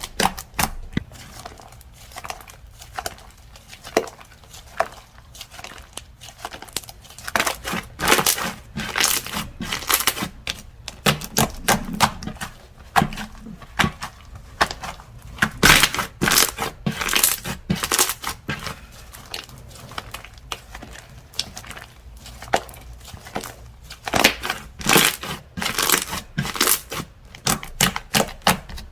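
Slime being squeezed, stretched and pressed by hand, giving dense irregular crackling and popping clicks that come in clusters with short lulls between them.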